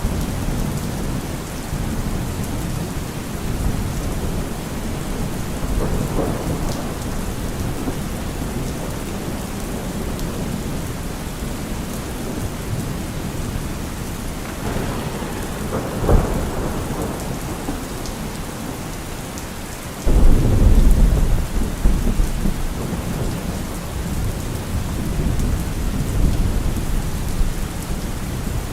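Steady heavy rain hissing, with rolling thunder: a sharp crack about 16 seconds in, then a sudden loud low rumble about 20 seconds in that rolls on for several seconds.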